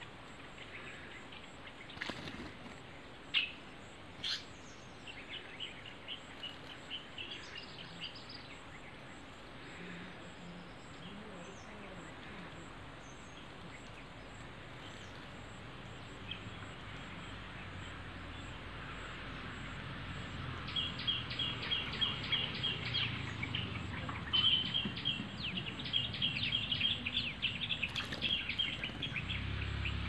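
Small birds calling in scrub woodland: scattered short high chirps in the first half, then from about twenty seconds in, fast chattering runs of short high notes. A low hum builds underneath in the second half.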